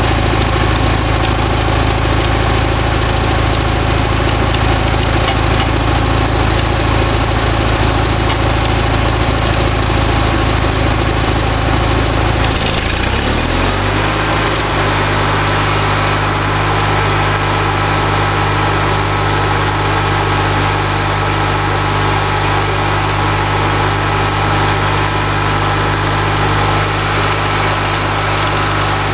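Homemade sawmill's lawnmower engine running steadily. About halfway through its speed shifts and settles, and a thin steady whine joins it.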